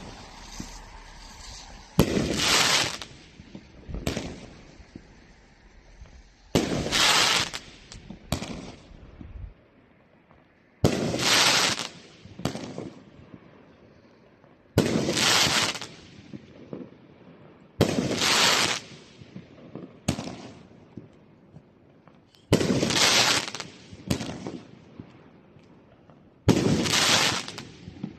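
Winda 'Sprinkle Donuts' (P5544) consumer firework firing a series of shots: seven loud sudden blasts about every four seconds, each lasting about a second and followed by one or two smaller pops or crackles.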